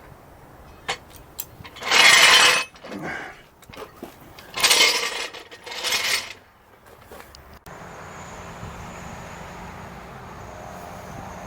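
Metal jacking gear being worked: three harsh scraping, rattling noises a few seconds apart, with light clinks between them. It gives way suddenly to a steady hiss.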